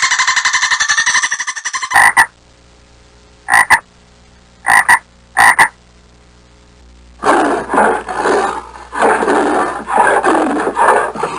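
Frogs calling: a fast rattling trill, then four short, sharp double croaks a second or so apart, then a run of rougher, raspy calls near the end.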